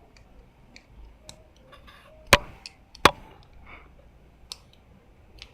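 A 10 mm spanner working on the bolts of a motorcycle brake lever bracket: light metal ticks and clinks, with two sharp loud clacks close together near the middle.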